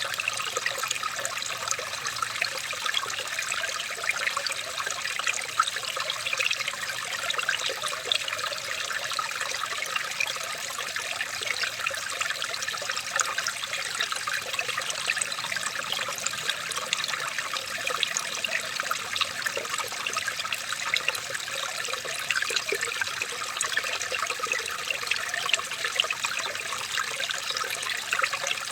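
Water trickling and splashing steadily over a small stream, with many small plops and no change throughout.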